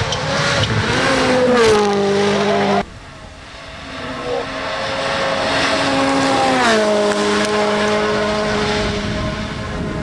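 Rally1 cars' 1.6-litre turbocharged four-cylinder engines running flat out, changing up a gear with a drop in pitch. The sound cuts off suddenly about three seconds in, then a second car comes in and grows louder, shifting up again a little past halfway.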